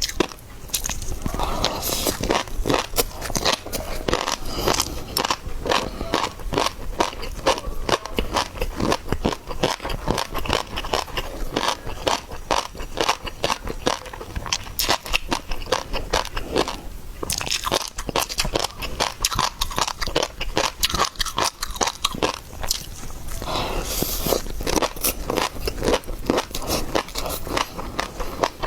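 A person biting, chewing and crunching seafood, a dense run of small wet clicks and crackles with brief let-ups.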